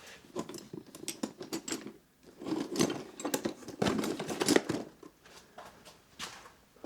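Screwdriver work on a motorhome door lock: irregular clicks, scrapes and rattles of metal as two screws are undone, busiest in the middle.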